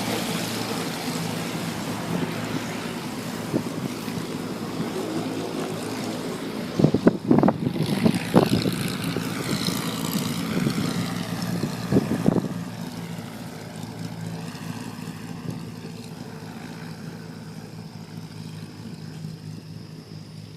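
Beechcraft Baron's twin piston engines running steadily with propellers turning, with a few loud thumps about seven to eight seconds in and again around twelve seconds; the engine sound then grows gradually fainter.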